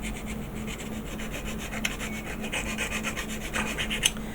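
Hand-sanding a plastic model-kit part with the curved side of a sanding stick or file: quick back-and-forth rasping strokes, about six a second, with a couple of sharp ticks near the end.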